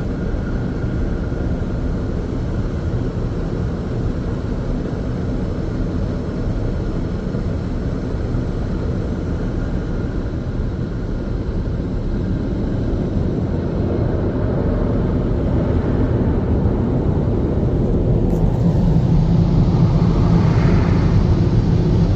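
Istobal M'Wash 3 car wash blower dryers running, a steady loud rush of air heavy in the low end that grows louder over the last several seconds.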